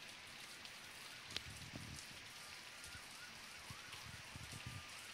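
Steady rain falling, faint, with scattered drip ticks and patter.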